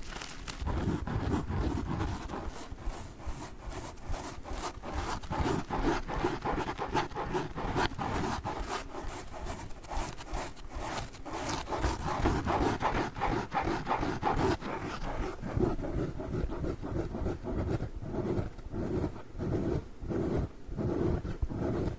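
A pack of sponges being rubbed, scratched and squeezed in quick, continuous strokes. The crackly, rustling texture turns lower and duller about two-thirds of the way through.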